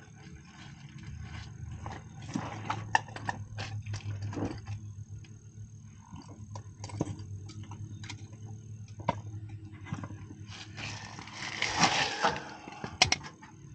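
Scattered clicks, taps and rustling of hand tools and control wiring being worked, as a stake-on terminal is fitted on a low-voltage wire, over a steady low hum. A longer scraping rustle comes near the end, then two sharp clicks.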